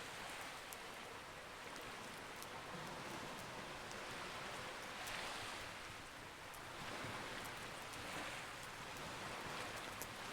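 Campfire crackling, with sharp little pops scattered over a steady rushing wash that swells and fades every second or two.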